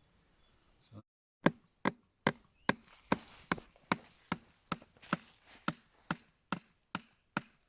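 A hammer driving a nail into an oak log nest box: about fifteen sharp, steady blows, roughly two and a half a second, starting about a second and a half in.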